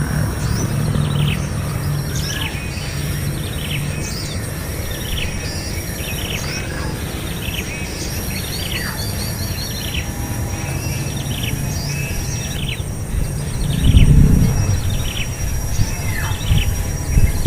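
A small bird chirping over and over, short falling notes about one or two a second, against a steady high insect whine and a low outdoor rumble. A loud low thump comes about fourteen seconds in and another near the end.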